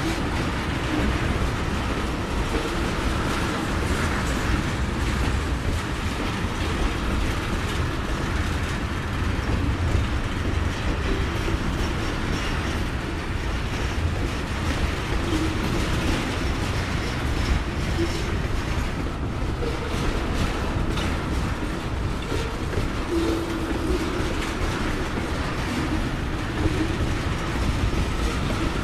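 Loaded railroad tank cars of a freight train rolling past: a steady rumble of steel wheels on rail with clickety-clack of wheels over the track and a few short wheel squeals now and then.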